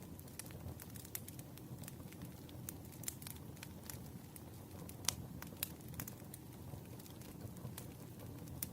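Campfire crackling: a steady low rush of burning wood with frequent sharp, irregular pops and snaps.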